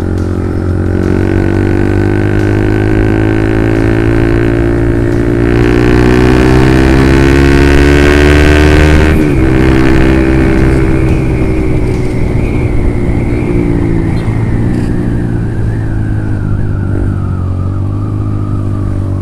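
Honda CB150R single-cylinder engine through a Lone Ride aftermarket exhaust, ridden under acceleration: the exhaust note climbs steadily in pitch for about nine seconds, breaks briefly at a gear change, then eases and slowly falls as the bike rolls off the throttle.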